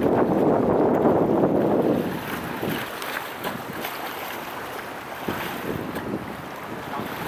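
Wind buffeting the microphone over open water, heavy for about the first two seconds and then easing off to a lighter rush.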